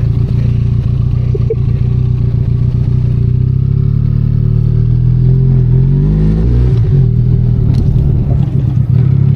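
Benelli Leoncino 500 Trail's parallel-twin engine running under way, its pitch rising and falling a few times about halfway through as the throttle opens and closes, with light clattering from the bike.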